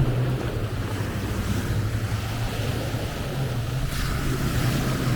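Sea waves washing on the shore under the steady low drone of a motorboat engine out on the water. The wash swells into a louder hiss about four seconds in.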